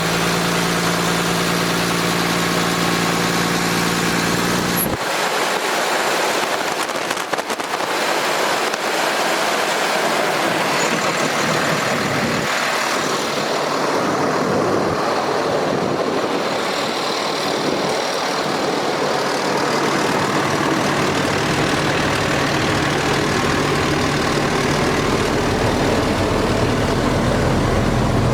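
Cummins ISC diesel engine of a Freightliner M2 truck idling. About five seconds in, the deep low hum drops out abruptly and a steady rushing noise is left; the low hum comes back near the end.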